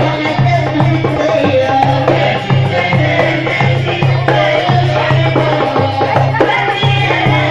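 Port Said simsimiyya folk music: a band playing with a hand-drum rhythm over a steady, pulsing low beat and a melodic line above.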